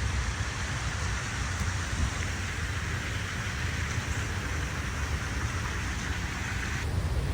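Steady hiss of heavy rain over a continuous low rumble; the hiss cuts off suddenly near the end while the rumble carries on.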